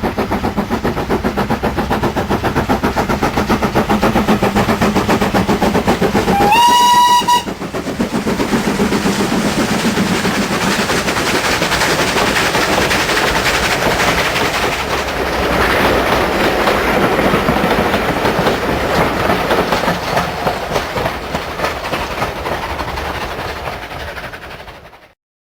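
Train running with a steady hum, a short whistle about six and a half seconds in, then a rattling clatter of wheels on the rails that cuts off suddenly near the end.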